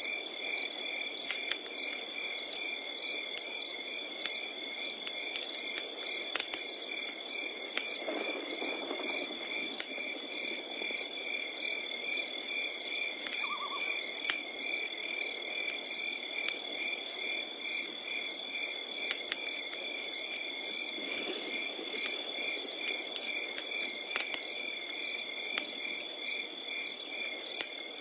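Wood fire crackling, with scattered sharp pops over a low hiss of burning. Behind it, crickets sing: a steady high trill with chirps in an even pulse.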